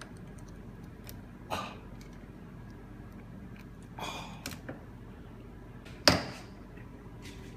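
A handful of short, sharp metallic knocks and clicks from hand tools working an old seal off a Hydramatic gearbox part, the loudest about six seconds in.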